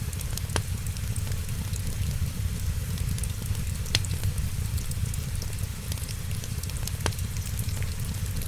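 Wood fire crackling, with three sharp pops about half a second in, at about four seconds and at about seven seconds, over a steady low rumble and the hiss of rain.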